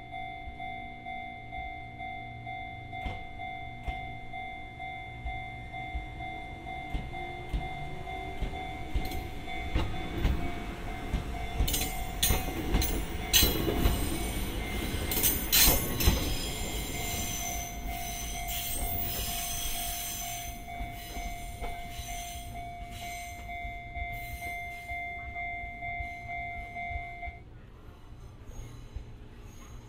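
Fujikyu 1000 series electric train pulling out and passing close by. Its wheels clatter over rail joints and points and squeal on the curve, loudest about halfway through, then fade as it pulls away. A steady high tone runs underneath and stops near the end.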